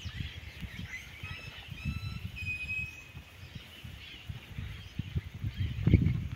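A bird whistles several short notes and then one longer held note in the first half, over low, irregular thumping and rustling that is loudest near the end.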